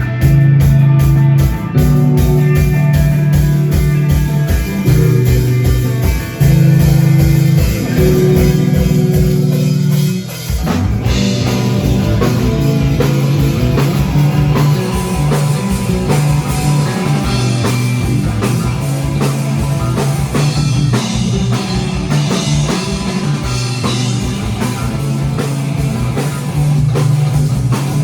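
Live rock band playing an instrumental passage: a steady kick-drum beat under sustained bass and electric guitar chords. About ten seconds in the band drops out for a moment, then comes back in fuller with cymbals.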